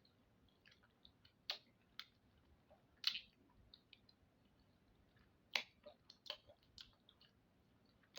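Eating sounds of soft, wet food: scattered faint lip smacks and mouth clicks while chewing, a few louder smacks about a second and a half, three and five and a half seconds in.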